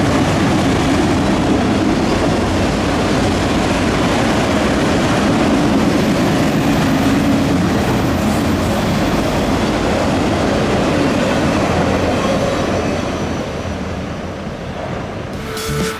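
Freight train of autorack cars rolling past: a steady rumble and clatter of steel wheels on the rails, fading near the end as the last cars move away.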